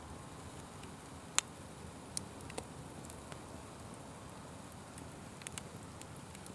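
Wood fire crackling: a soft steady hiss with scattered sharp pops, one loud pop about a second and a half in and a few smaller ones after.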